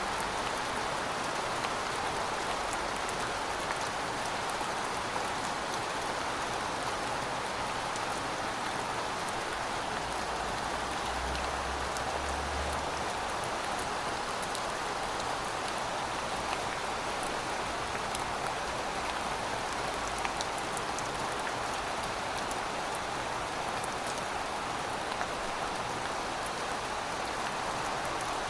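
Heavy rain falling steadily, an even wash with individual drops ticking sharply on top.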